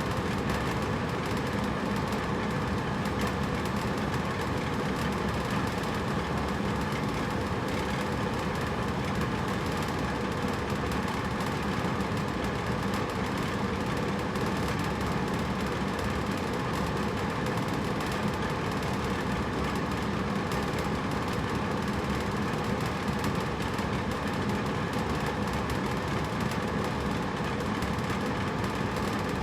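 Hotel room air conditioner running steadily: an even rushing of air over a low mechanical hum, with no change in level.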